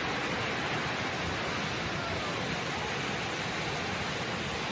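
Floodwater rushing, a steady unbroken roar of moving water.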